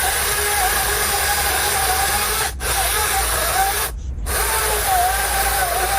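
Chainsaw engine running under load, its pitch wavering as the throttle and cut vary.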